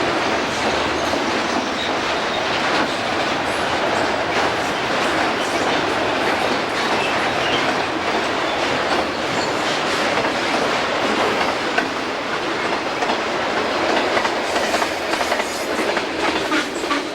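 Railroad cars rolling past, a steady rumble and rush with the wheels clicking over rail joints, which cuts off abruptly at the end.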